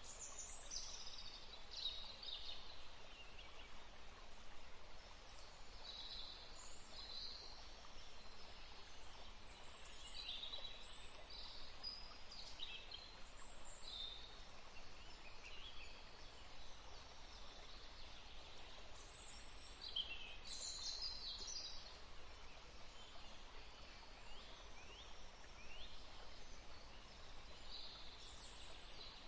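Songbirds singing in short, high chirps and trills, one after another, over a faint steady background hiss.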